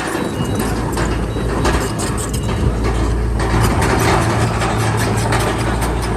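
Bulldozer's diesel engine running steadily under a dense metallic rattle of its tracks, growing a little louder about halfway through.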